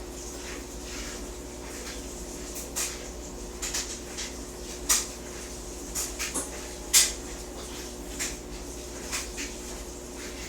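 Scattered short, soft clicks and scratchy ticks at irregular intervals over a steady low hum.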